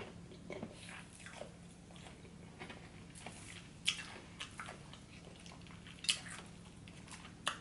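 Close-up chewing of fried butterfly shrimp in a light, crispy batter: soft mouth sounds with a few sharp crunches, the loudest about four and six seconds in.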